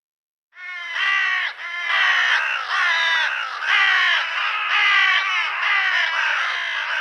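Bird calls, harsh and repeated about twice a second, starting about half a second in and cutting off abruptly near the end.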